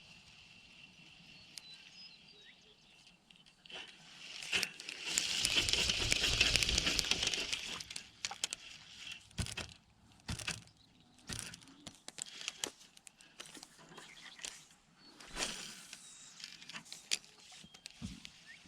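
Fishing rod and reel being worked: a few seconds of rustling noise about four seconds in, then scattered light clicks and rattles.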